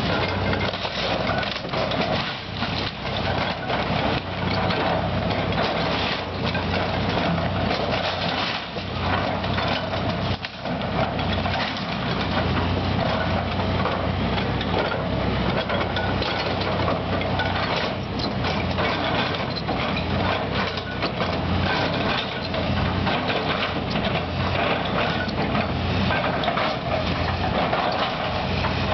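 Heavy machinery engine running steadily while a house is torn down, with repeated cracking, crunching and knocking of breaking wood throughout.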